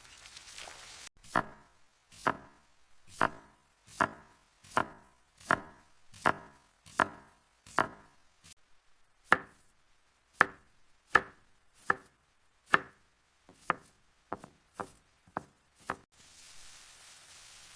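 Knife chopping food, about nineteen separate sharp strokes, roughly one a second, with a short pause about halfway and quicker strokes near the end.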